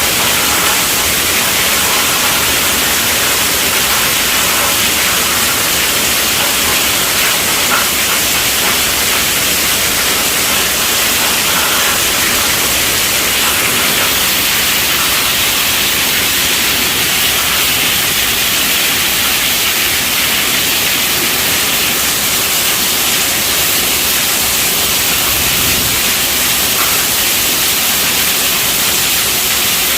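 Steady rainfall: an even, continuous hiss of rain, strongest in the high range, with no separate drops or thunder standing out.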